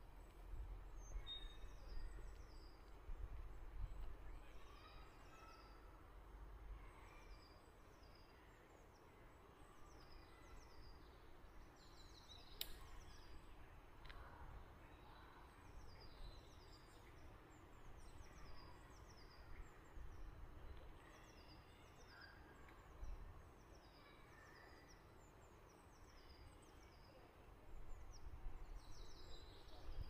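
Faint birdsong: a bird repeating short, high, falling notes about once a second, over a low rumble.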